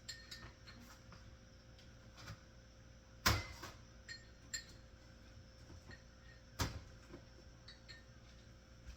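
Kitchenware clinking and knocking: a scattered run of light clinks, some with a brief ring, and two louder knocks, about three seconds in and nearly seven seconds in.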